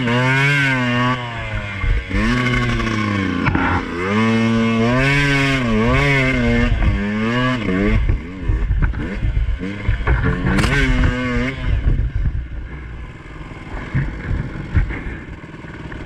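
Two-stroke dirt bike engine revving up and down as it is ridden, its pitch rising and falling over and over for about eight seconds. After a brief dip it climbs again around ten seconds in, then drops to a lower, rougher running sound near the end.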